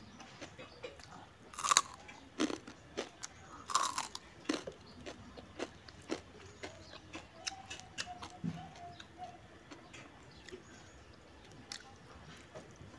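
A person biting into crisp fried food, with two loud crunches about two and four seconds in, then chewing with many small crunches that thin out in the second half.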